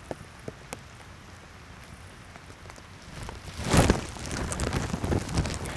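Rain falling, with scattered sharp ticks of individual drops, and a louder rush of noise about three and a half seconds in.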